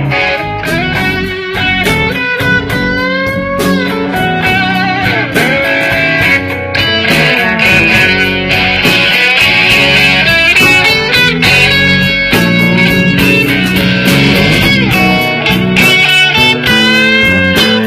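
Blues band playing an instrumental passage: a lead electric guitar plays bent, sliding notes over bass and drums.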